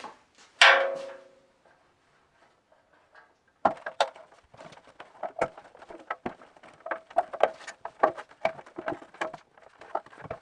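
A single metal clang that rings on briefly, then after a pause a long run of quick, irregular knocks and clicks, like parts and tools being handled on a workbench.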